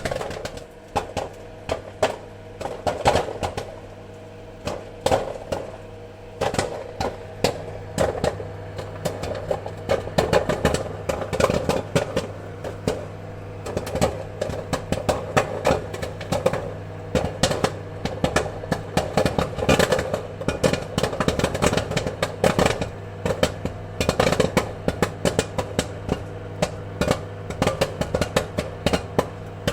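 Popcorn kernels popping: dense, irregular sharp pops, several a second, over a steady low hum.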